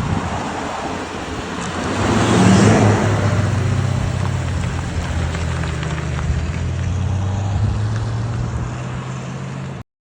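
1966 Ford Bronco running steadily on the road, its engine a low hum under road noise. A louder rushing swell comes about two to three seconds in, and the sound cuts off suddenly near the end.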